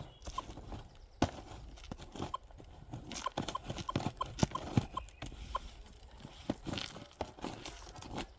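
Metal detector being switched on and set up: short, single-pitch beeps, about ten of them through the first half or so, mixed with knocks and clatter from handling the gear.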